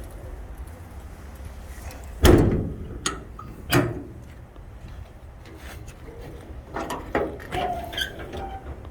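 A door on the lube truck's body shut with a heavy thump about two seconds in, then a lighter knock and a second sharp clunk about a second and a half later, over a low steady rumble.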